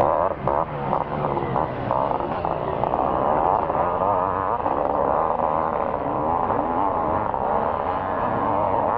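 Two-stroke 500cc motocross bike engines running hard as riders race past, their pitch rising and falling as they rev.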